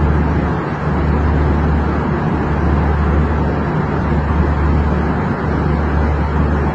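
Airliner cabin noise in flight: a steady roar of engines and airflow with a strong low hum that dips briefly a few times.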